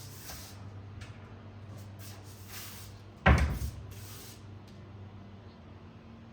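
A door shutting with a single loud thump about three seconds in, over a steady low hum.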